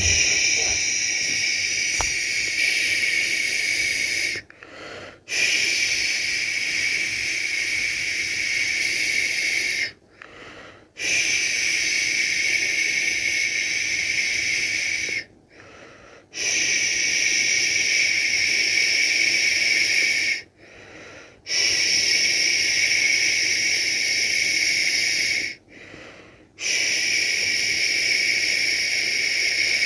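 A person making long, steady 'shhh' shushing sounds to lull a baby to sleep. Each shush lasts about four to five seconds, with a short pause of about a second between them, about six in all.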